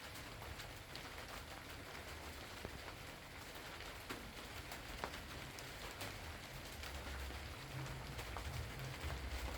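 Steady rain falling, with single drops ticking sharply on a surface, and a low rumble underneath that grows louder in the last few seconds.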